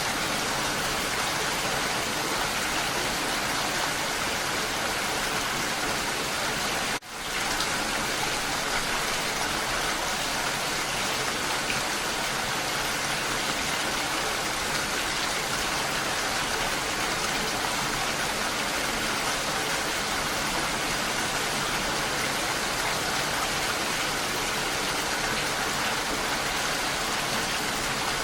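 Steady, even rain. The sound drops out for a moment about seven seconds in, then comes straight back.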